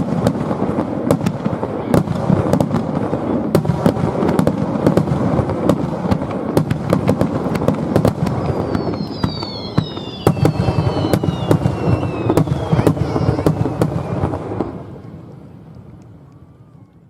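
Fireworks display: a rapid barrage of shell bursts and crackling bangs over a continuous rumble, with several falling whistles in the middle. The barrage dies away near the end.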